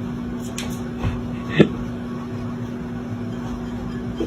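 A steady low electrical or appliance hum, with a short sharp sound about one and a half seconds in.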